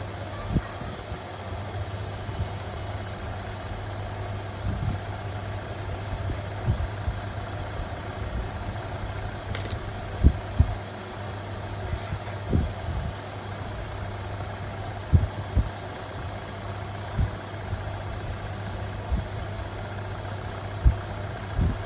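A steady low mechanical hum runs throughout, with irregular soft knocks and one sharp click about ten seconds in.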